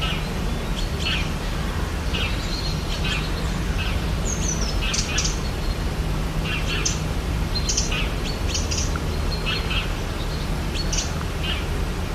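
Rainforest ambience: many short bird chirps and calls, several a second, some sliding down in pitch, over a steady low background hiss and hum.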